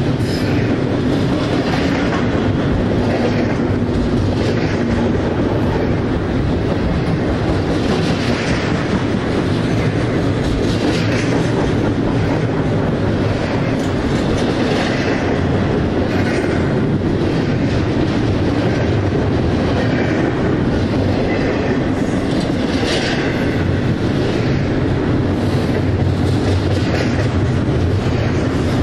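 A train rolling past: a steady rumble of wheels on rail, with repeated clickety-clack over the rail joints and brief higher screeches every second or two.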